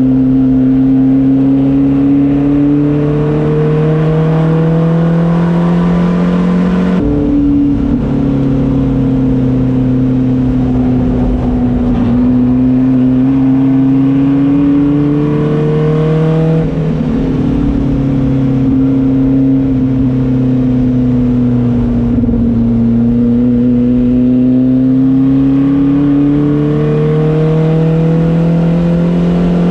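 Race car engine under load, its pitch climbing slowly and then dropping sharply twice, about 7 and 16 seconds in, before climbing again.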